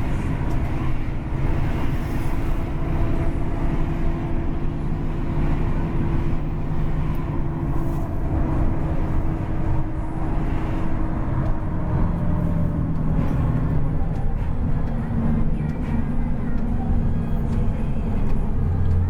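Running noise of a coach bus fitted with a racing exhaust, heard from inside: a steady low engine and road rumble whose engine note drops about twelve seconds in and rises again a few seconds later as the speed changes.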